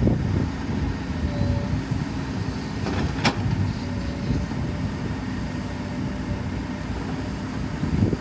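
Excavator's diesel engine running steadily, with a faint steady whine above it and one sharp clank about three seconds in.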